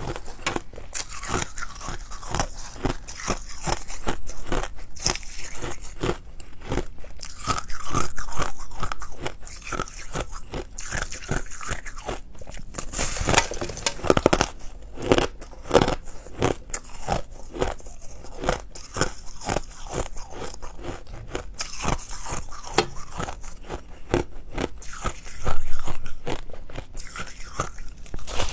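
Close-up crunching of ice being bitten and chewed, dense crackles throughout with louder bursts of bites now and then.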